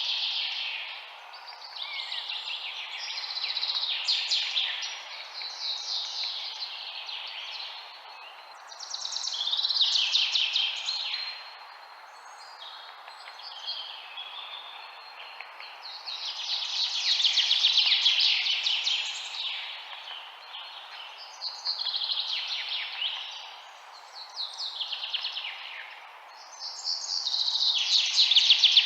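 Songbirds chirping: phrases of rapid high chirps every two or three seconds, some falling in pitch, over a steady background hiss.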